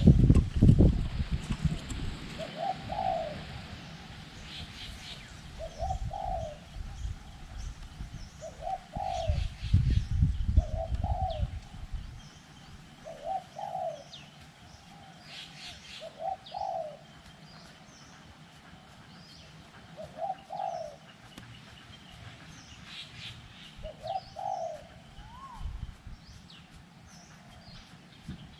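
Spotted dove cooing, a short low phrase repeated about every two to four seconds, with small birds chirping high above it. Wind buffets the microphone in heavy gusts at the start and again around ten seconds in.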